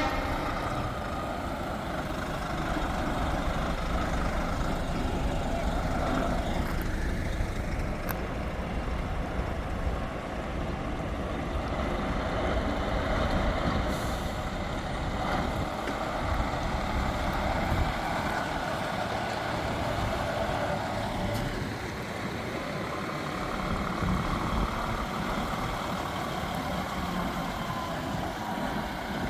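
Heavy trucks driving slowly past, their diesel engines running, with the hiss of air brakes.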